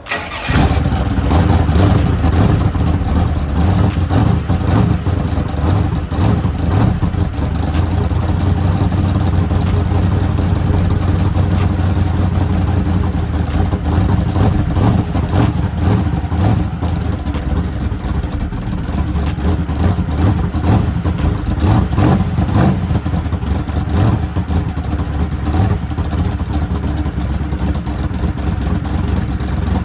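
Twin-turbo small-block Chevy V8 firing on its first start and running loud, its level rising and falling with the throttle.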